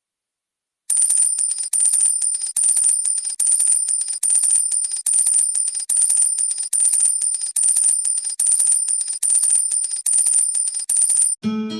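A high-pitched electronic ringing trill, repeating in about a dozen even bursts a little under a second long, starting after a brief silence. Guitar music comes in near the end.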